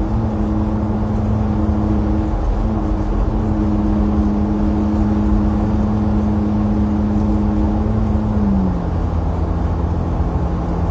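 Car on the move: a steady engine and road rumble with a humming engine note that drops in pitch about eight and a half seconds in.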